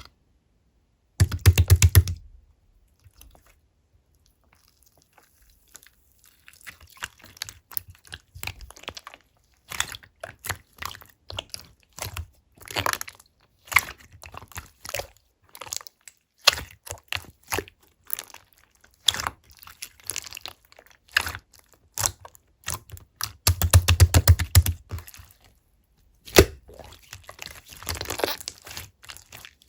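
Slime being handled by hand, stretched, folded and pressed, making dense runs of sticky clicks and pops. There are two louder, heavier spells of squishing, about a second in and again about 24 seconds in.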